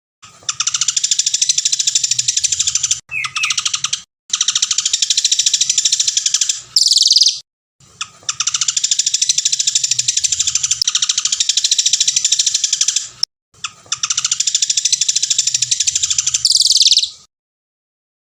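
A songbird singing long, very fast trilled phrases of several seconds each, separated by brief pauses, with a higher sweeping note near the end of two of the phrases.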